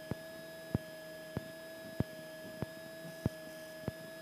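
Steady electrical whine with a sharp click about every two-thirds of a second, seven in all: interference on the aircraft's radio/intercom audio between transmissions.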